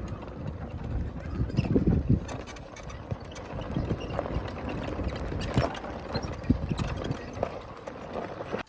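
Irregular knocking and low rumbling from riding a vehicle over a rough, bumpy safari track.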